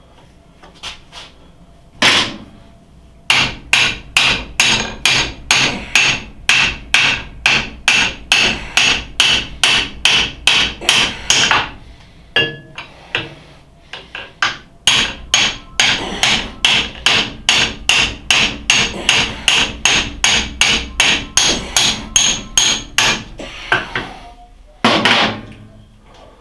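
Repeated hammer blows ringing on metal, about two a second in two long runs with a short pause and some lighter taps between them. They are driving the under-drive shaft of a South Bend Heavy 10 lathe out of its base, and the shaft is coming slowly.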